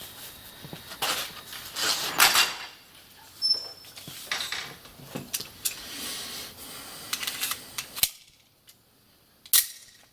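A string of 9 mm shots from a Beretta 92G Elite Compact pistol, fired one at a time about a second or so apart, with a longer pause before a last shot near the end.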